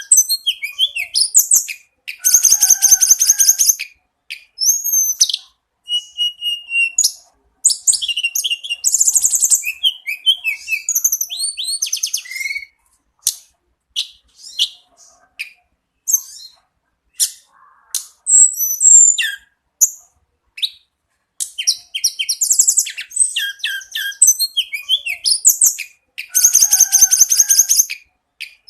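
Tledekan gunung singing a varied, high-pitched song: rapid dense trills, sliding whistled notes and sharp chirps in phrases separated by short pauses.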